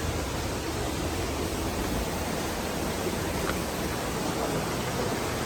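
Steady rushing of water from a waterfall and its river, an even wash of noise with no breaks.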